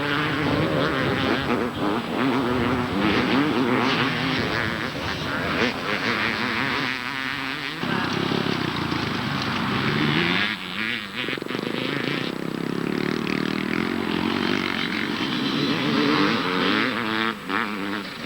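Several 250cc two-stroke motocross bikes racing, their engine notes rising and falling again and again as the riders open and close the throttle and change gear.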